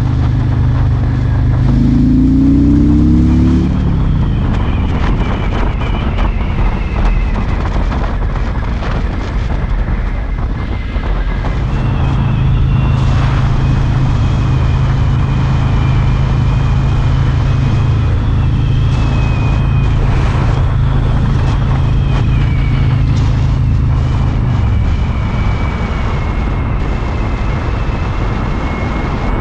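Harley-Davidson Road King's V-twin engine on the move. The revs climb about two seconds in as it pulls away, then the note goes rough and unsteady for several seconds. From about midway it holds a steady pitch, then eases off near the end, with wind rushing over the microphone.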